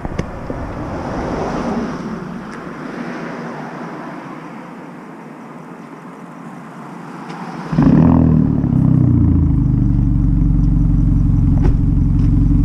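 A 2018 Hyundai Elantra Sport's straight-piped turbocharged four-cylinder starts about eight seconds in, after several seconds of low hiss. It catches with a loud flare that drops in pitch, then settles into a steady idle.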